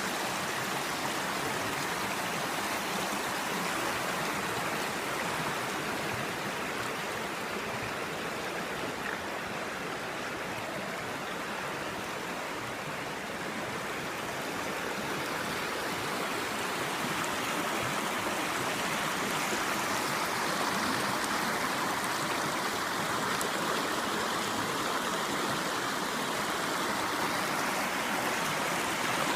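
River water running steadily, growing slightly louder in the second half.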